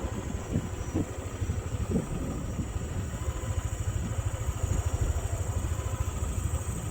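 A vehicle engine running steadily with a low, even pulsing rumble and a few soft knocks.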